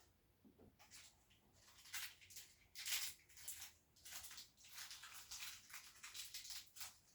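Faint, irregular rustling and scraping: a quick run of short rasps starting about a second in, loudest near the middle.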